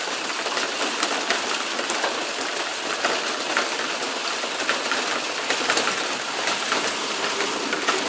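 Heavy rain coming down hard, a steady hiss with many small drop impacts spattering on surfaces close by.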